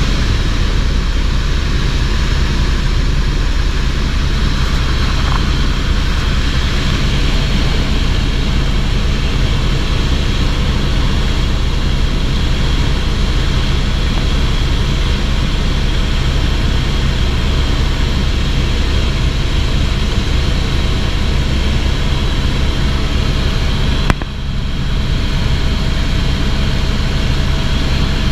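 Tour helicopter in flight: steady engine and rotor noise throughout. Near the end there is a single sharp click and a short dip in level.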